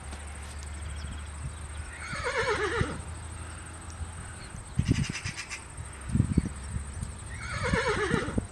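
Horse neighing twice, each whinny falling in pitch, with a few low thumps between the calls.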